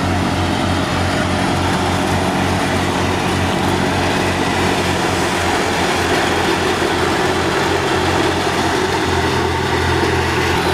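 Al-Ghazi tractor's diesel engine running steadily, driving a wheat thresher, with the thresher's dense, even noise running along with the engine note.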